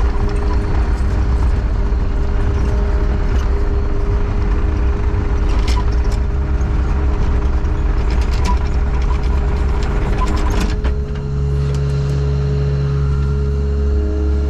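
Engine of an earthmoving machine running under load while backfilling a trench, with scattered clanks and knocks; about eleven seconds in the working noise drops and the engine settles to a steadier note.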